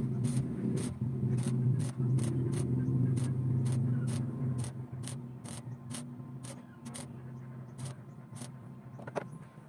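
An engine running with a steady low hum that dies down from about four and a half seconds in, while faint high ticks repeat about three times a second.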